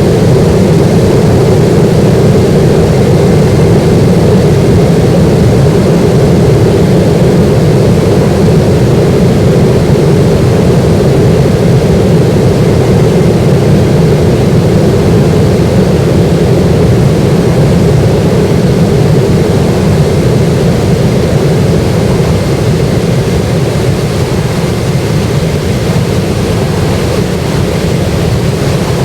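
Boeing 737-800's CFM56 jet engines, a loud steady rush and drone that eases slightly over the last several seconds.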